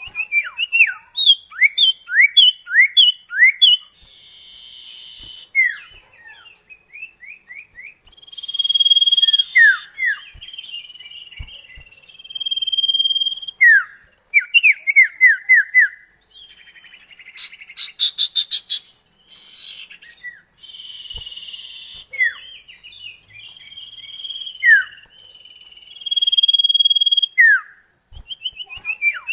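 Common iora (cipoh kacat) singing a long, lively song. Quick runs of short sweeping whistles alternate with held clear whistled notes, and a rapid buzzy trill comes about two thirds of the way through.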